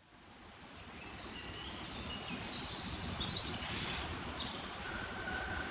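Outdoor nature ambience fading in from silence: a steady rushing noise with several birds chirping and calling over it.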